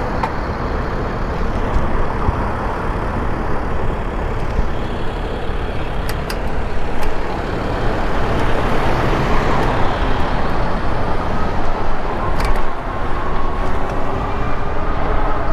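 Road traffic noise with a steady rush over the microphone during an e-bike ride in town. There are a few sharp clicks, and a faint rising whine near the end.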